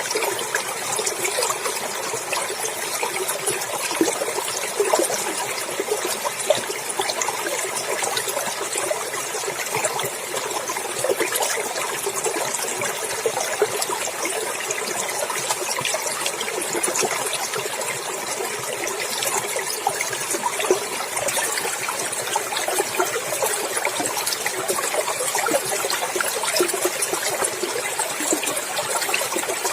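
Clear water running and splashing over rocks in a small wild stream, a steady babbling trickle.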